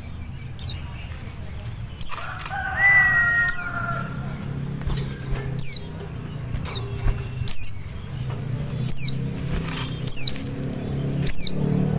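White-eye (pleci) calling: short, high chirps that slide downward, repeated about once a second. About two seconds in there is one longer, lower warbling call, all over a steady low hum.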